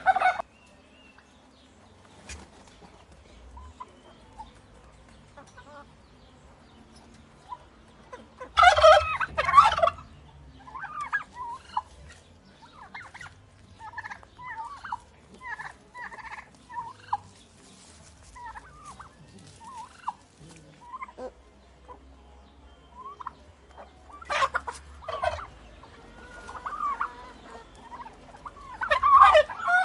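Turkey gobbling: three loud, rapid rattling gobbles of about a second and a half each, the first about nine seconds in, the second near twenty-five seconds and the last at the very end. Softer short calls come in between.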